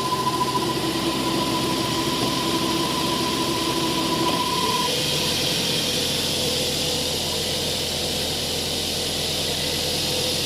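Car engine idling steadily, with the idle running high. A steady high whine stops about halfway through, and the engine's note shifts at the same moment.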